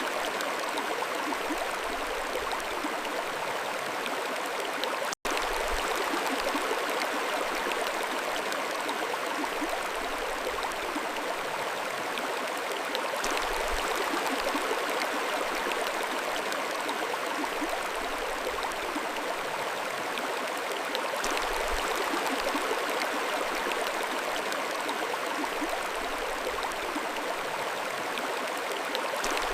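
Mountain stream flowing steadily over rocks, a dense even rush of water. The sound cuts out for a split second about five seconds in.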